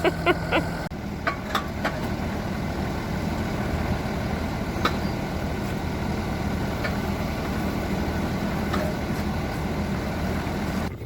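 An engine running steadily at idle, with a few short knocks and clicks over it.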